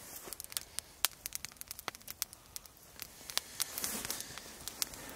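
Wood fire crackling and popping in a small stainless fire pit: irregular sharp pops over a soft hiss, just after lighting.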